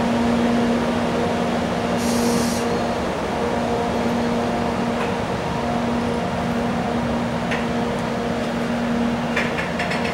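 Freight train of oil tank wagons rolling slowly past, a steady rumble with a constant low hum over it. A short hiss of air about two seconds in, and a few faint clicks near the end.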